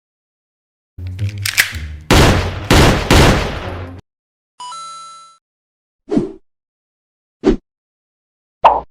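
A string of separate stock sound effects. First comes a loud run of gunfire-like bangs lasting about three seconds. Then a brief ringing tone fades out, followed by three short, sharp hits spaced about a second apart.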